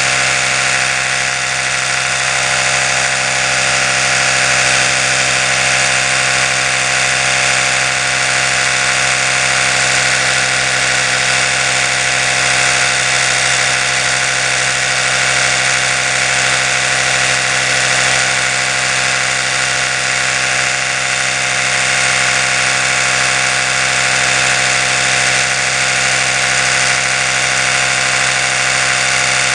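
Oral-B electric toothbrush running continuously, its oscillating brush head spinning with a steady, even buzzing hum that does not change.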